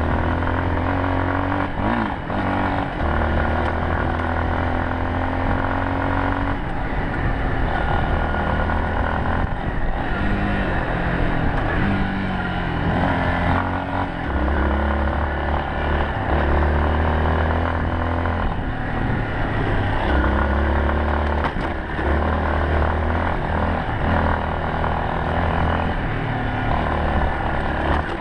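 Yamaha Serow 250's air-cooled single-cylinder engine running under way, its pitch rising and falling as the throttle opens and closes, easing off briefly every few seconds.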